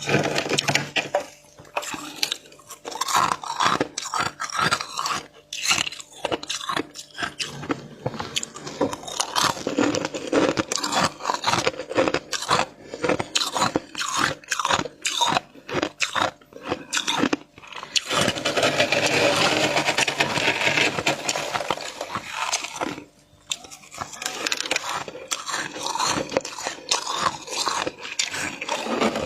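Close-up crunching of flaky frost being bitten and chewed: many quick, irregular crunches. About eighteen seconds in, a continuous stretch of frost scraping lasts about five seconds, then the crunching resumes.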